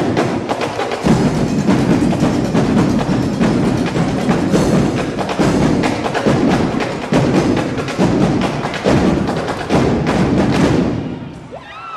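Drum section playing a fast, dense percussion cadence with sharp stick clicks; it stops near the end.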